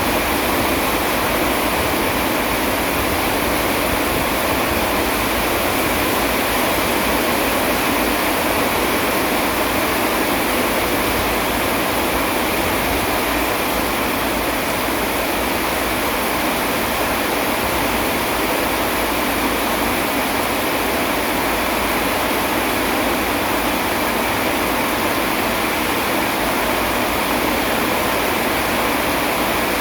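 Steady rain falling, a loud even hiss with no thunderclaps.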